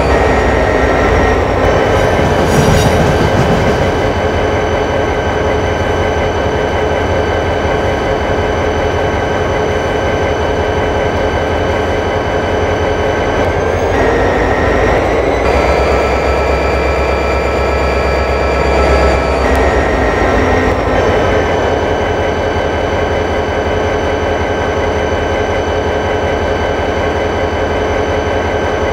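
A train running, with a steady whine of several tones over a low rumble. The tones glide up in pitch about 14 seconds in and change again around 21 seconds.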